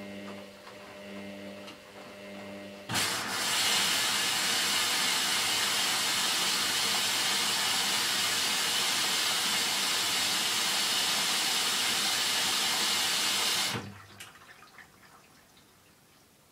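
Hoover DYN9144D3X washing machine taking in water: about three seconds in the inlet valve opens with a sudden loud hiss of rushing water that holds steady for about eleven seconds, then cuts off sharply and trickles away. Before it, the machine gives a low, pulsing hum.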